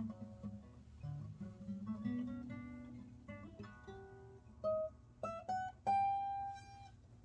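Acoustic guitar being test-played: picked notes and chords, then a few single plucked notes near the end, the last one the loudest and ringing out for about a second.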